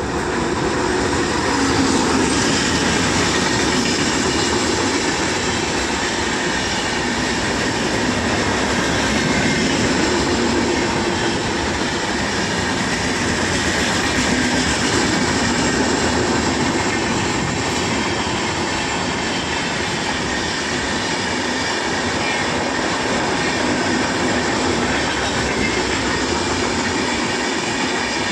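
Netravati Express passenger train running through the station at speed without stopping: a loud, steady noise of its coaches' wheels on the rails.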